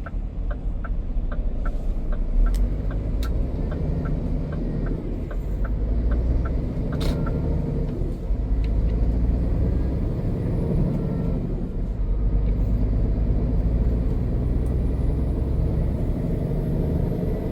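Scania truck's diesel engine running steadily, a low rumble heard from inside the cab. A regular ticking, about three a second, runs through the first six seconds, and there is a single sharp click about seven seconds in.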